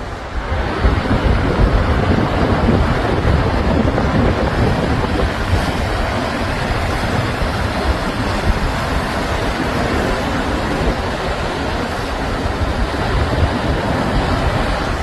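Heavy waves of a rough sea breaking in continuous surf, a steady noise with a strong low rumble, with wind buffeting the microphone.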